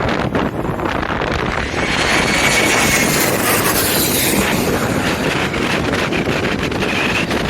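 Jet airliner passing low overhead, its engine whine rising to a peak about two to four seconds in, with faint gliding tones. Strong wind buffets the microphone throughout.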